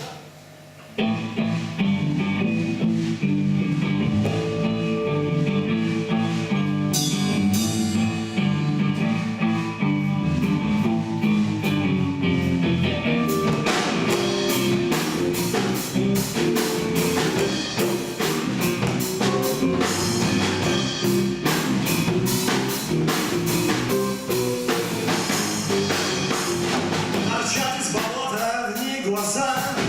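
Live rock band starting a song: guitar and bass play the intro, beginning suddenly about a second in, and the drum kit comes in about halfway through.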